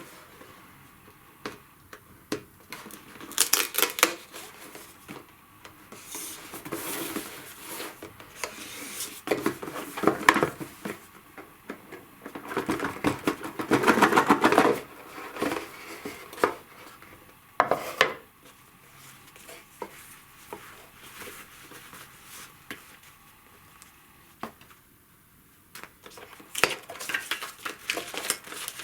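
Board game contents being unpacked and handled by hand: small hard pieces clicking and clattering, with rustling and scraping of cardboard and paper, in irregular bursts. The longest and loudest stretch of handling comes about halfway through.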